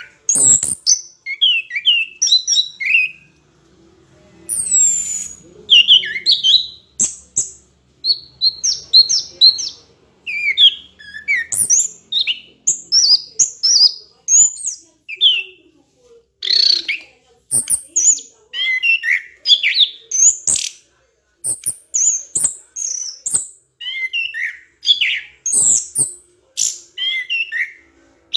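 A bird chirping in a rapid, near-continuous run of short, high notes with brief pauses, plus a few sharp clicks.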